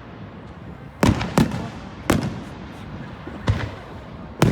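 Fireworks going off: a string of sharp bangs, each with a short booming tail. Two come close together about a second in, then more at roughly one-second intervals, with another loud one near the end.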